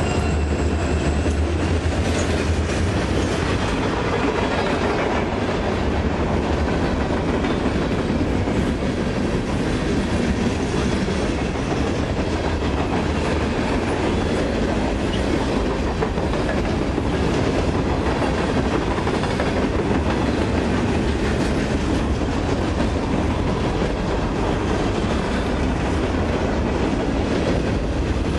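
A long freight train's cars rolling past close by: a steady heavy rumble with the wheels clicking over rail joints. A deep low drone from the locomotives that have just passed fades over the first few seconds.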